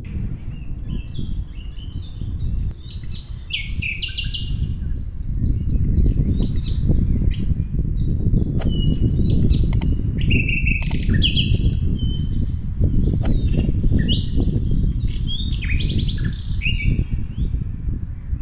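Small birds chirping and calling over and over in quick short notes and rising and falling glides, over a steady low rumble that grows louder about five seconds in.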